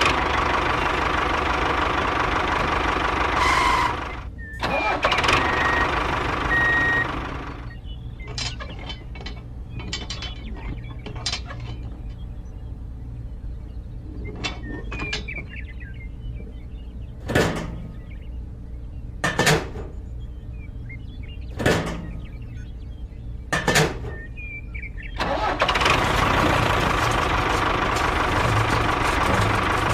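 Small motor of a homemade mini tractor running loudly, then dropping much quieter for a long stretch broken by several sharp knocks, and picking up loud again near the end.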